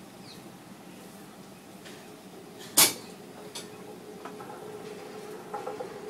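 Passenger train running along the track, heard from a coach window: a steady rumble of wheels on rail, with one sharp knock about three seconds in and a lighter one just after. The running noise grows louder near the end.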